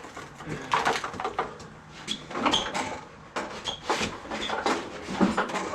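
A motorcycle being pushed and shifted into place by hand: scattered knocks and clunks with a few short, high squeaks.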